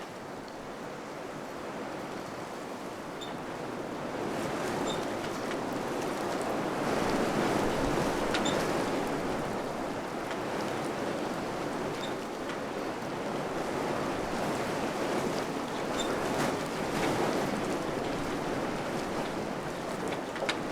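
Wind blowing in gusts, a steady rushing that builds about four seconds in and then rises and falls. A few faint light ticks sound now and then.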